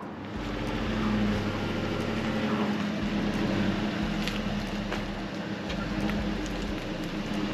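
Tow vehicle's engine idling steadily with the boat trailer hitched behind, a low even hum.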